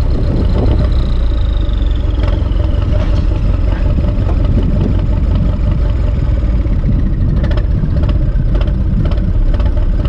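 Turbocharged Ursus C-360 tractor's four-cylinder diesel engine running steadily, with a high whine that falls in pitch over the first three seconds. Light sharp clicks come in during the second half.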